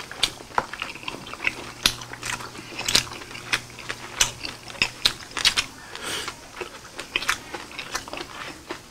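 People chewing grilled pork and rice: wet mouth smacks and clicks, several a second and irregular.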